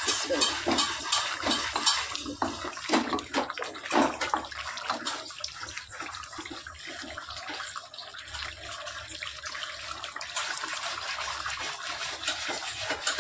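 Chicken and potato curry sizzling and bubbling in oil in a metal kadai. Through the first few seconds a wooden spoon scrapes and knocks against the pan. The sizzle then runs on steadily and grows louder near the end.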